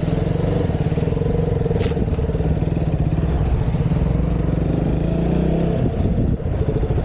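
KTM Duke 200's single-cylinder engine running at low revs as the motorcycle creeps along, with a short click about two seconds in.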